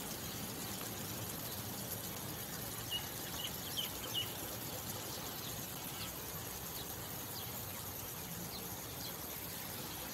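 Steady outdoor hiss with several short, high bird chirps about three to four seconds in, and fainter chirps later.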